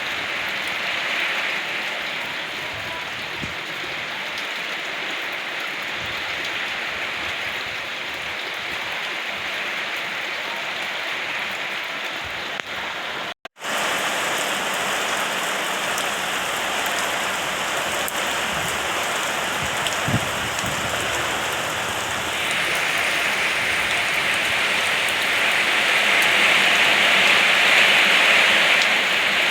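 Steady rain falling, an even hiss of drops. It cuts out for a split second about thirteen seconds in, then resumes, and grows louder in the last several seconds.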